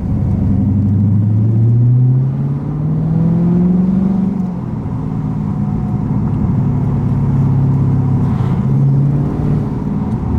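Dodge Scat Pack's 6.4-litre HEMI V8 through a loud exhaust, accelerating with the engine note rising for about four seconds, then easing off to a steady lower drone.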